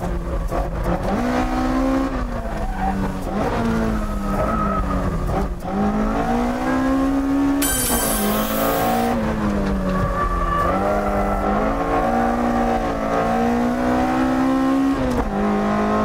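Toyota AE86's twin-cam four-cylinder engine heard from inside the cabin while it is driven hard. The engine note climbs and drops again and again as the driver accelerates, shifts and lifts through the bends. There is a brief high-pitched squeal about eight seconds in.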